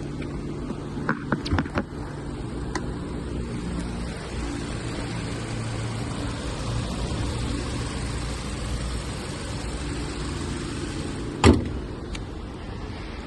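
2016 Hyundai Tucson's engine running steadily at idle, with a few clicks about a second in and a single loud, sharp thump near the end.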